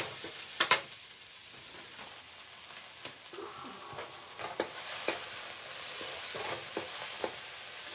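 Diced peppers and onions sizzling in oil in a frying pan, stirred with a wooden spatula that scrapes and knocks against the pan now and then.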